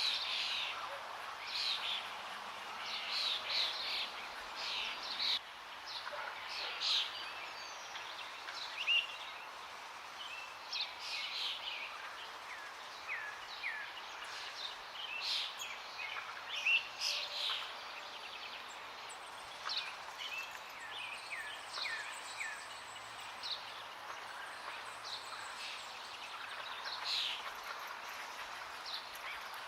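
Several songbirds chirping and calling in quick short notes over a steady rush of flowing water. The chirping is densest in the first few seconds and again near the end.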